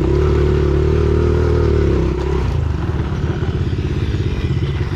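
Pit bike engine held at steady high revs, then the throttle closes about two seconds in and it drops to a lower, chugging run.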